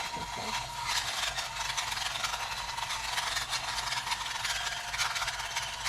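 Pot of water at a rolling boil on the stove, a steady bubbling hiss with fine crackling.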